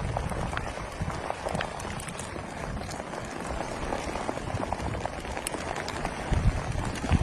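Heavy rain falling steadily, with many close drops striking sharply and a few low thuds near the end.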